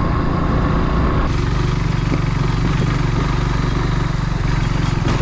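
Kawasaki W175's single-cylinder engine running steadily as the motorcycle is ridden. The sound changes abruptly a little over a second in.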